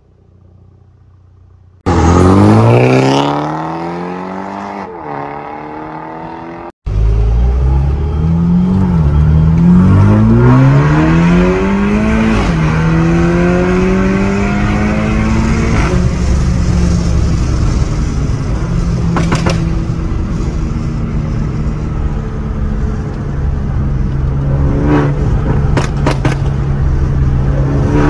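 Tuned Toyota Supra B48 2.0-litre turbo four-cylinder with a catless downpipe and Fi valvetronic exhaust. About two seconds in it starts with a loud flare of revs that falls away to a fast idle, typical of a cold start. Then, heard from inside the cabin, the engine note rises through a couple of gears with a drop at each shift before settling into a steady cruise.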